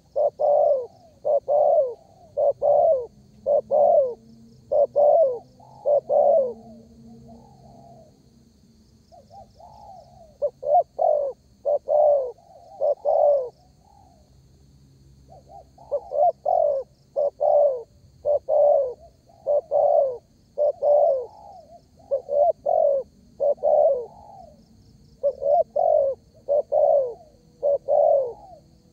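Spotted dove (derkuku) cooing in quick runs of short, repeated coos. The calling thins out and softens for a few seconds around the middle, then picks up again.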